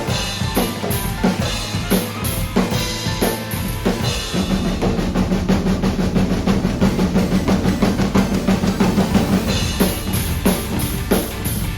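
Drum kit played along with a pop-rock backing track in an instrumental break: beats with cymbal crashes at first, then a fast, even run of drum strokes over a held low note in the middle, and cymbals returning near the end.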